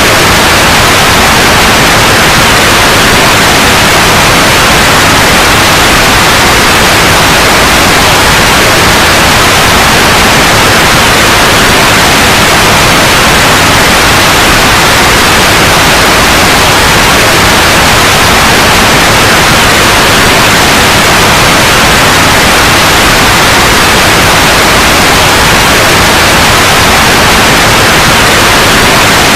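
Loud, steady white noise: an unchanging hiss with no changes or breaks.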